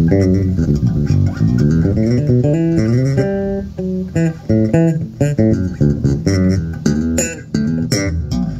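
Ken Smith electric bass, its original preamp replaced after it failed, playing a fast run of plucked notes through an amplifier, with sharper, snappier attacks in the last couple of seconds.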